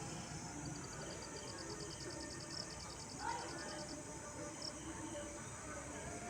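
A high, rapid chirping trill of even pulses, about nine a second, from a small animal. It stops about four seconds in, and a short rising chirp is heard just after three seconds.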